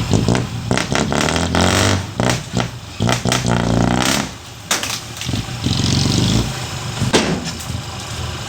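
Heavy machinery engine running and changing pitch, with many sharp knocks and clanks.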